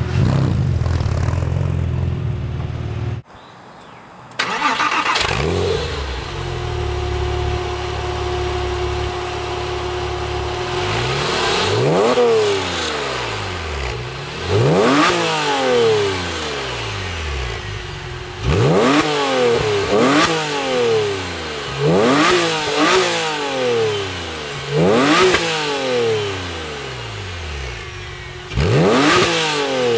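Porsche 997 Carrera flat-six idling through an aftermarket sport exhaust, with a short break about three seconds in. From about twelve seconds on it is blipped repeatedly: around nine quick revs that rise sharply and fall back to idle, several coming in quick pairs.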